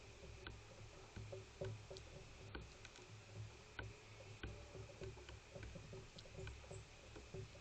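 Near silence: faint, irregular ticks and taps, roughly one every half second or so, over a low steady hum.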